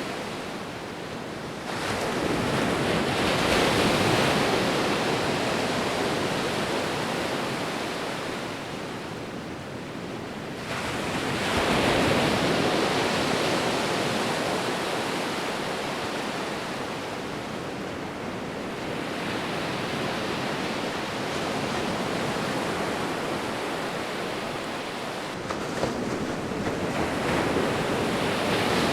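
Ocean waves breaking and washing onto the shore. The surf rises in slow surges a few seconds apart, about two, eleven, nineteen and twenty-six seconds in, easing back between them.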